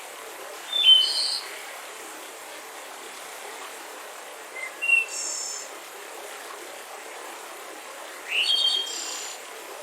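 Birds chirping in three short bursts of high calls, about a second in, around the middle, and near the end, over the steady rush of a mountain river.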